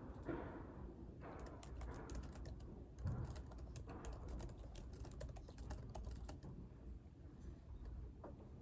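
Typing on a computer keyboard: a quick run of key clicks that thins out about six and a half seconds in, over a faint low room hum.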